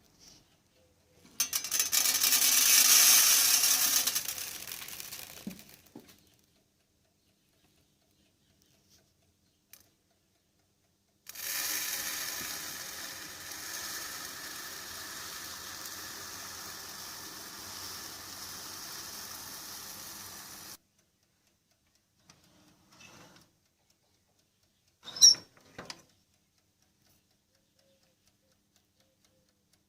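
Silica gel beads from an air-suspension compressor's dryer being poured out, a loud pattering rush lasting a few seconds. It is followed by a longer, quieter steady rush that starts and stops abruptly, then a couple of short clicks.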